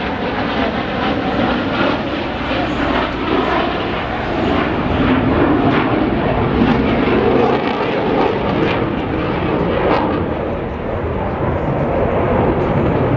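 Loud jet roar from the twin turbofan engines of a Boeing F/A-18E Super Hornet flying its display, swelling a little in the middle.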